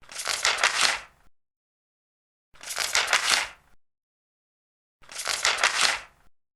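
Large paper pages being turned: three page turns about two and a half seconds apart, each a papery rustle lasting a little over a second, with dead silence between.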